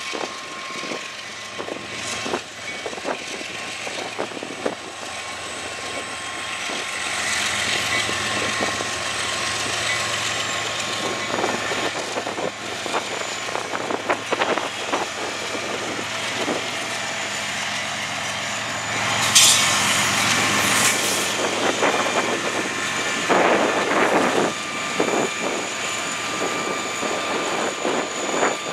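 Freight train passing: the diesel locomotives rumble steadily as they go by, with many sharp clicks and clanks from the wheels on the rails. A brief, loud high-pitched screech comes about twenty seconds in.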